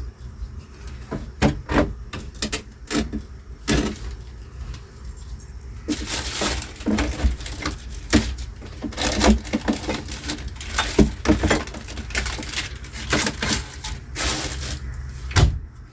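Household items being handled and packed away: a run of clinks, knocks and small clatters with rustling, growing busier about six seconds in.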